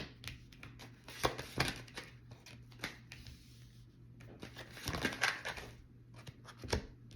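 Tarot cards being shuffled and handled, with irregular light snaps and clicks and a denser burst of card noise about five seconds in. A faint steady low hum runs underneath.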